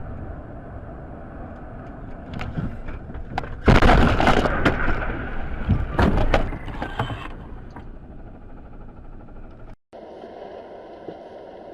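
A car collision heard from a dashcam inside the car: steady road and engine noise, then about four seconds in a loud crash with breaking and crunching, and more impacts about two seconds later. Near the end it switches abruptly to a different steady road noise.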